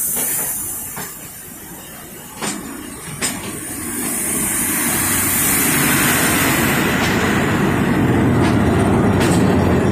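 Train running on the rails past a passenger train on the next track, wheels clicking sharply over rail joints twice a few seconds in. The running noise grows louder and fuller from about four seconds, as the other train's diesel locomotive comes alongside.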